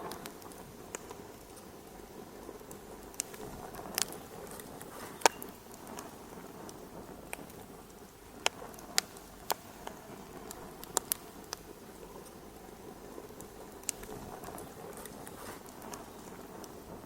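Fireplace fire crackling: a steady low hiss with sharp, irregular pops and snaps, about a dozen of them, some much louder than the rest.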